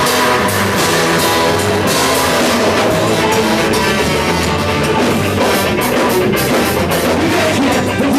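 Live ska-punk band playing loud and fast: drum kit, guitars and bass, with horn lines.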